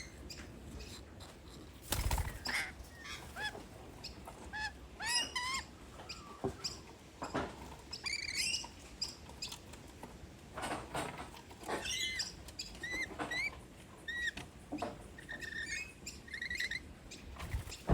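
Rainbow lorikeets giving many short, squeaky chirps and chatter while feeding in an apple tree, with a dull thump about two seconds in and another near the end.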